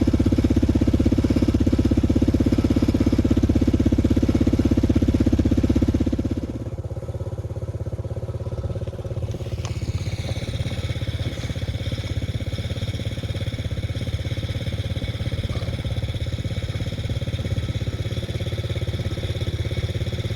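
A small vehicle's engine running steadily, loud at first, then easing off to a quieter, steadier run about six seconds in.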